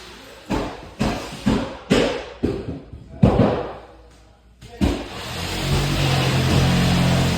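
Knocks and scuffs of a person crawling through a crawl space under a house, roughly two thumps a second for the first few seconds. After a brief lull there is one more thump, then a steady low hum starts about five and a half seconds in.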